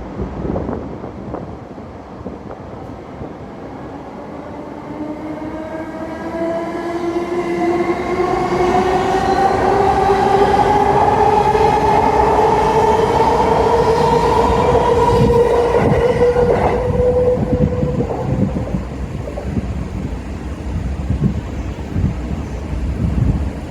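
Narita Express E259 series electric train pulling away: its traction motor whine rises steadily in pitch as it accelerates, then fades into the clack of wheels over rail joints.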